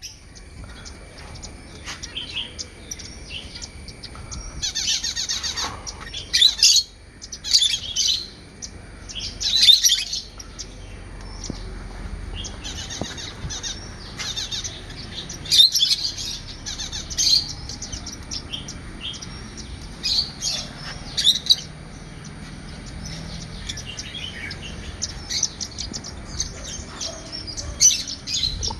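A flock of pet parakeets chirping and chattering without pause, with louder bursts of calls between about five and ten seconds in and again around fifteen seconds in.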